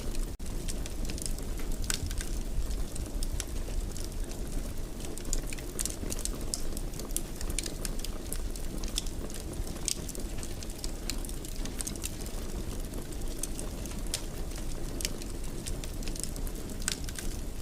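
Wood fire burning in a fireplace: a steady low rumble of flames with frequent, irregular sharp crackles and pops. The sound drops out for a split second just after the start.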